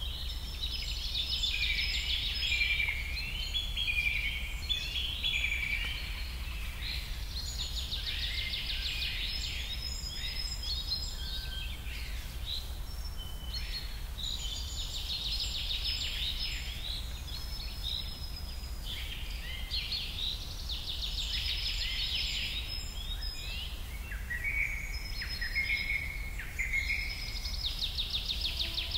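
Birds chirping and trilling in quick repeated phrases, over a steady low background hum.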